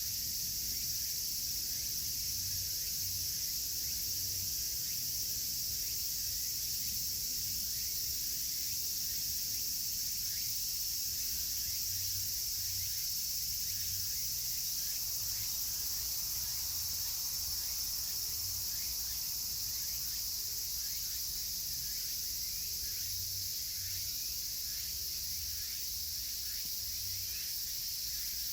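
Dense, steady chorus of cicadas singing together, with a campfire crackling in many small ticks and some low rumbling from the fire.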